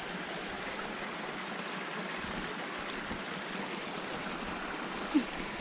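Storm runoff water running steadily: an even, constant rush of flowing water, with one brief louder sound near the end.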